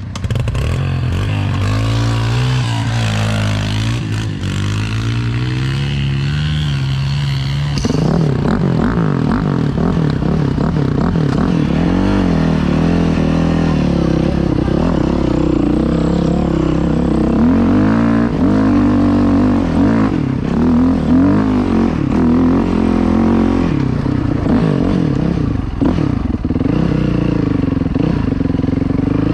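Dirt bike engine running close by while being ridden, revving up and down with the throttle. It gets louder and busier about eight seconds in.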